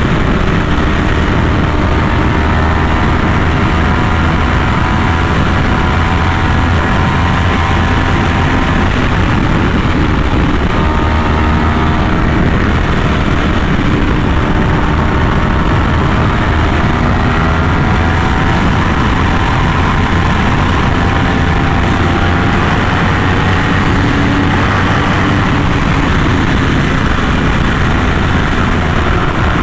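Yamaha R1M's crossplane inline-four engine running through an SC Project aftermarket exhaust. It holds a steady cruise, its note rising and falling only slightly, with no hard revving.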